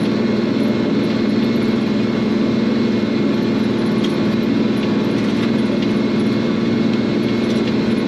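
Tractor diesel engine running steadily at a constant speed, with an even drone.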